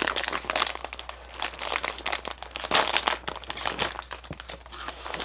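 Crinkling of a plastic snack-chip bag being handled and rustled, a dense, irregular crackle.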